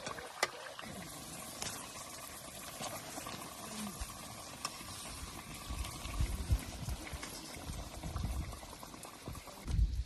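Liquid bubbling at a boil in a cooking pot, with scattered small clicks and some irregular low thumps in the second half.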